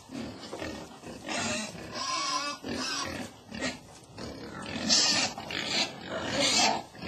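Domestic pig grunting and squealing: low grunts broken by several loud, shrill squeals, the loudest in the second half.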